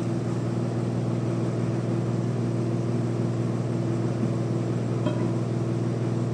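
Band sawmill running steadily: a low, even hum at a constant pitch that does not rise or fall.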